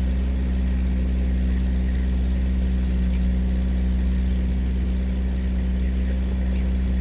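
Motorboat engine running steadily at an even speed, a low hum with a constant pitch.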